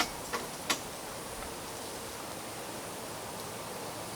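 Three quick clicks in the first second as the car's ignition is switched on, then only a steady faint hiss.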